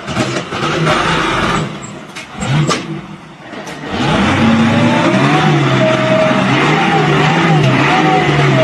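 A vehicle engine running loud, its pitch rising and falling as it is revved. There are a few sharp clicks and a brief dip about midway.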